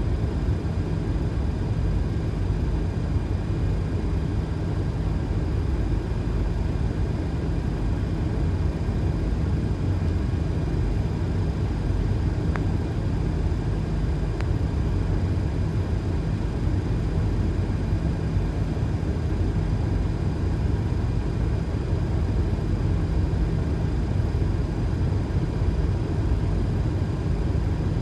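Steady low rumble of airflow and engines inside a Boeing 737 flight deck on final approach, with the gear down and flaps at 30.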